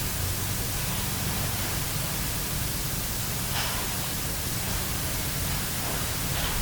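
Steady hiss of amplified digital voice recorder playback, with a low hum underneath and one faint, brief sound about three and a half seconds in.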